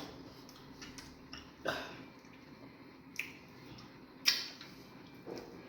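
Mouth sounds of eating fufu with egusi soup: a few short, wet lip smacks about a second apart, the loudest about four seconds in.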